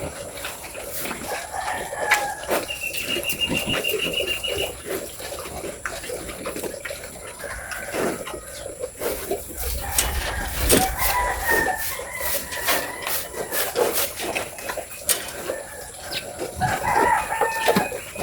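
A rooster crowing, once about ten seconds in and again near the end, over scattered sharp clicks and knocks.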